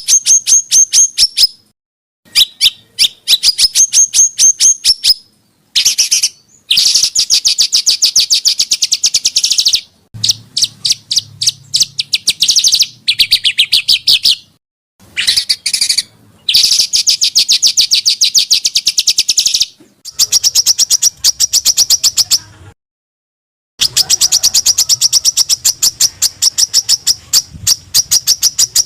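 Small songbirds' rapid-fire 'tembakan' song, of the kind compiled for masteran tutor recordings: very fast trains of sharp, high repeated notes in bouts of a few seconds, broken by abrupt silent gaps.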